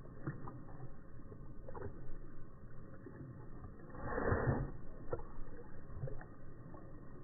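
Jack Russell terrier lapping water, the sound slowed down: irregular low splashes and clicks, with one louder splash about four seconds in.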